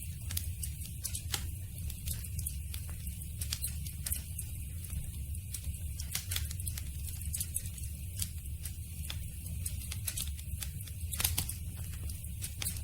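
Campfire burning: irregular crackles and pops from the wood over a low, steady rumble of the flames.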